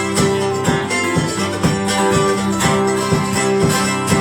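Acoustic guitar strumming a steady rhythm of chords during an instrumental break in the song, with no singing.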